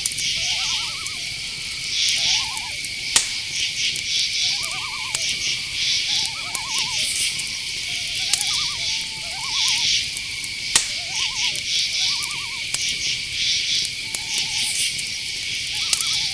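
Night forest ambience: crickets and other insects chirring steadily, overlaid by many short, quavering owl calls that repeat every second or so, with a few sharp clicks.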